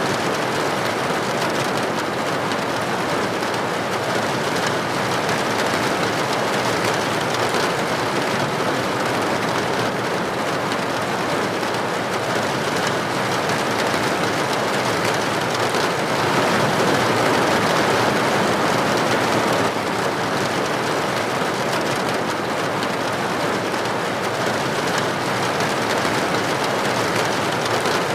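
Steady rain falling in an even, unbroken patter, swelling a little louder just past the middle.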